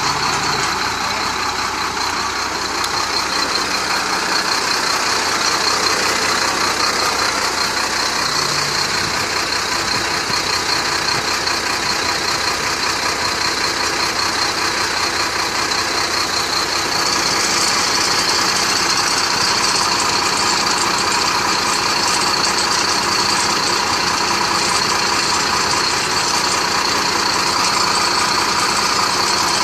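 Chenglong crane truck's diesel engine running steadily. A bit past halfway through, a brighter hiss joins it and stays.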